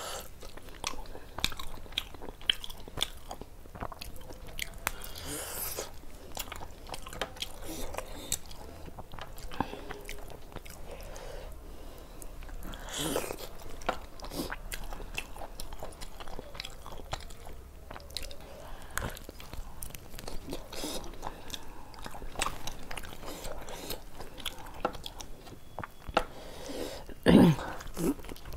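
Close-up mouth sounds of a person eating curry and roti by hand: steady chewing and biting with many small wet clicks and some crunch. A single louder, lower sound comes about a second before the end.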